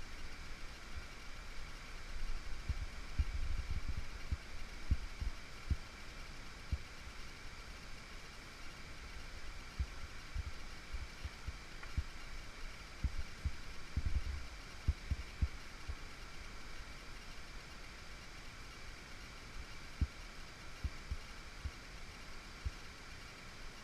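Steady rush of stream water, with irregular low thumps and rumble from the camera being jostled as the climber moves, loudest a few seconds in and again about halfway through.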